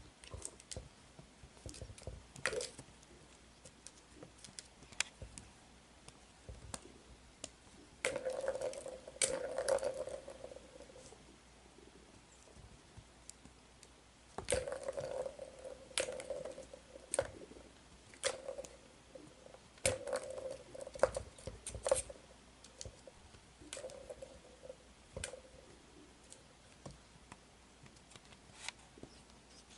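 A kitten playing with a toy: scattered light taps and clicks, with a few longer rattling, scrabbling bursts about 8, 14 and 20 seconds in.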